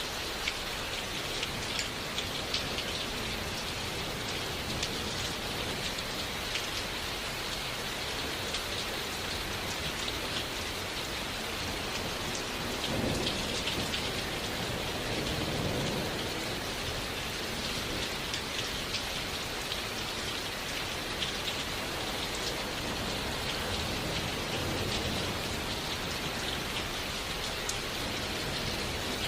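Steady autumn rain falling, with many small drops tapping close by. A low rumble of distant thunder swells about halfway through.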